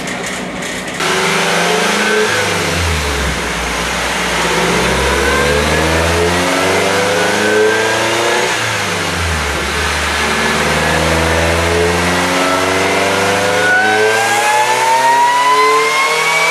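Supercharged Pontiac Solstice four-cylinder engine making a dyno pull, revving up under load. The pitch drops once at a gear change about nine seconds in, then climbs again, with a supercharger whine rising in pitch near the end.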